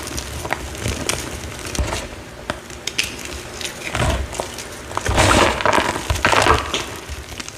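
A crumbly reformed heart-shaped block being crushed and crumbled, giving dense crackling crunches with many small sharp snaps. There are louder bursts of crunching about four seconds in and again between five and six and a half seconds in.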